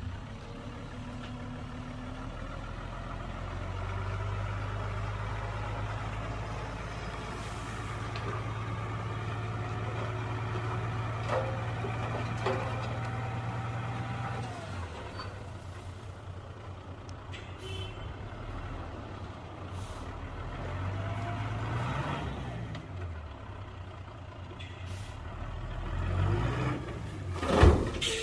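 Heavy diesel construction machinery running: a steady low engine drone, then revving up and down several times, with a sharp loud bang near the end.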